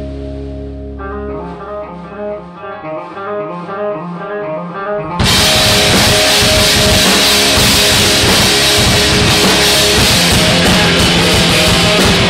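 Rock band playing live. A guitar picks a repeating figure over a fading chord, then about five seconds in the full band comes in loud with distorted guitars and drums.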